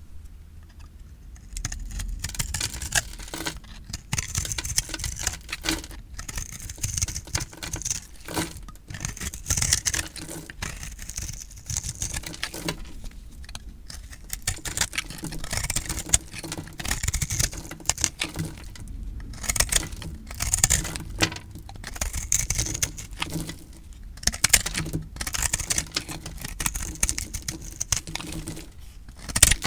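A blade cutting through dry recycled soap: runs of fine crackling crunches, one per cut, with short pauses between them.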